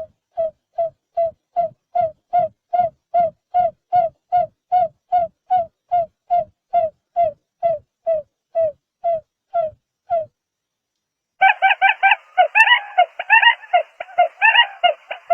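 Barred buttonquail giving a long run of evenly spaced low hoots, a little over two a second, which stop about ten seconds in. After a short pause, a louder, dense jumble of overlapping bird calls begins.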